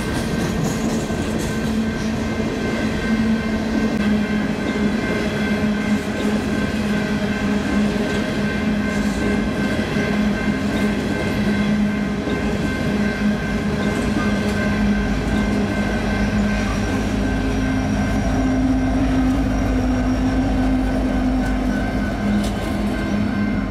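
Freight cars rolling past at close range: wheels clattering over rail joints under steady high-pitched squealing tones. From about 15 seconds in, the engine rumble of a BNSF diesel locomotive at the end of the train grows louder, with a steady low beat, as it draws level.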